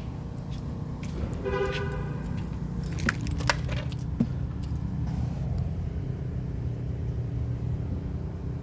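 A vehicle engine running steadily, with a short whine about a second and a half in and a few sharp clicks and a jangle around three seconds in.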